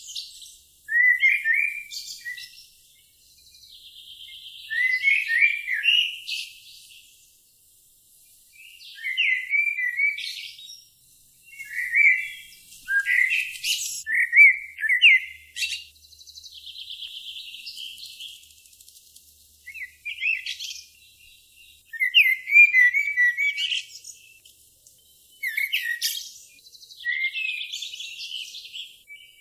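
A songbird singing in short phrases of quick chirps and whistled sweeps, separated by pauses of a second or two, several phrases running into a buzzy trill.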